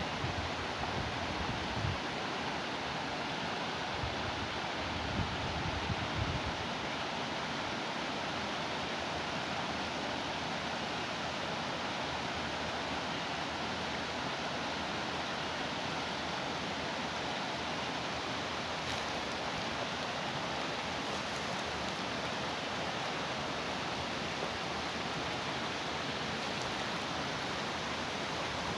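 Water rushing steadily over a small waterfall, an even hiss with no change in level. A few low thumps in the first several seconds.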